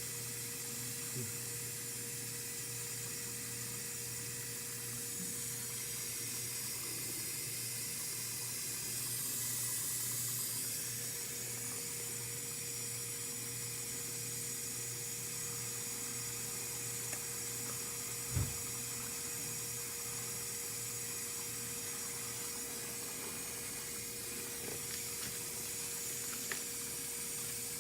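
Whirlpool dishwasher filling with water in diagnostic mode: a steady hiss of incoming water over a constant low hum. One short knock comes about eighteen seconds in.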